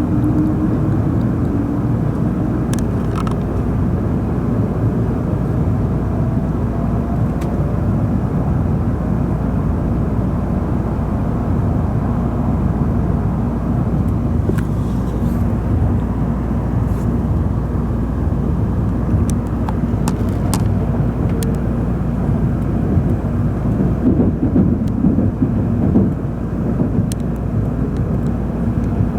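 Steady rumble of an N700-series Shinkansen car running at speed, heard from inside the passenger cabin, with a faint whine rising in pitch over the first several seconds. The rumble swells briefly about three-quarters of the way through.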